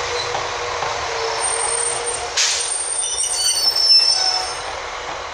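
Northern Class 156 diesel multiple unit drawing into the platform, its engine and wheels running with a steady rumble. A short hiss of air comes about two seconds in, then the brakes squeal high for a second or so as it slows to a stop.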